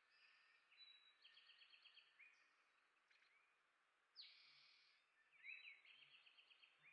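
Faint chirps and calls of small songbirds, with quick trilled runs of notes about a second in and again near the end, and one louder, harsher note a little after four seconds.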